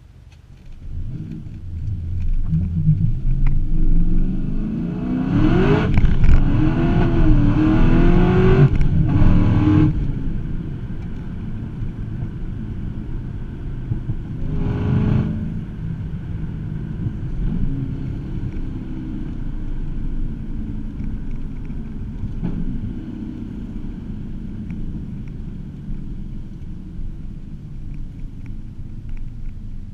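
The supercharged 6.2-litre V8 of a 2009 Cadillac CTS-V, exhausting through catless long-tube headers into the stock mufflers, heard from inside the cabin. About a second in it opens up and pulls hard with rising revs, and a few brief dips mark gear changes. It is loudest between about five and ten seconds. Then it settles to a steadier cruising drone, with one short burst of revs near the middle.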